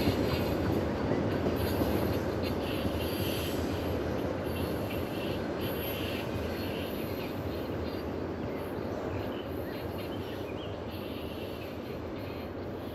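A mixed freight train hauled by a 2TE10U diesel locomotive receding out of sight: a steady low rumble that slowly fades.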